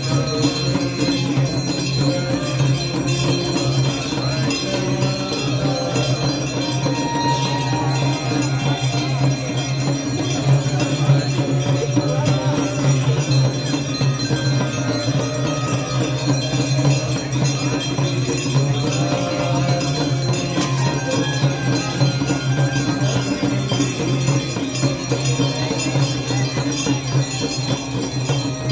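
Ganga Aarti ritual sound: many small bells ringing continuously over devotional music, a dense, unbroken jangle with no pauses.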